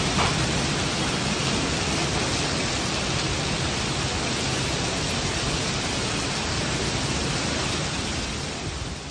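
Heavy rain pouring down onto a wet street, a steady, dense hiss of downpour.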